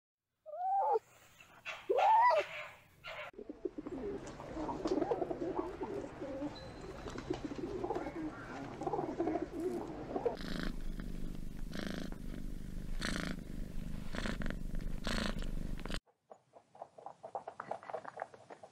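A fox gives two short calls that glide up and down in pitch in the first three seconds. Then a flock of feral pigeons coos in a dense, low, warbling stretch, followed by a run of sharp flaps a little after the middle.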